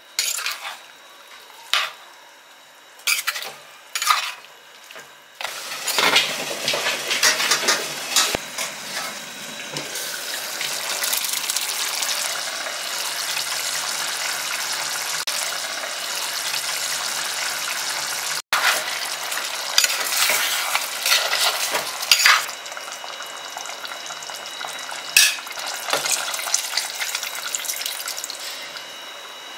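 Chicken curry sizzling in a clay pot while a spoon stirs it, knocking and scraping against the pot. A few sharp knocks come first; the steady sizzling begins about five seconds in, with more knocks through it.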